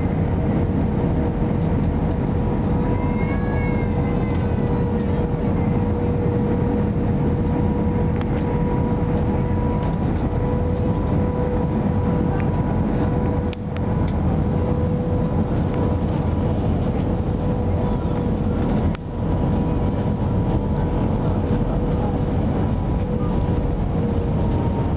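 Airliner cabin noise during the landing approach: the steady roar of the jet engines and rushing air, with a steady whine, dipping briefly twice near the middle.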